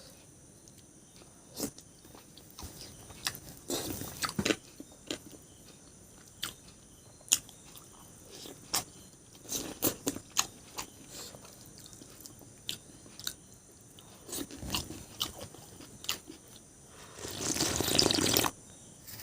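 Close-up eating sounds: scattered bites, crunches and mouth clicks of someone chewing food, with a longer, louder noisy stretch near the end.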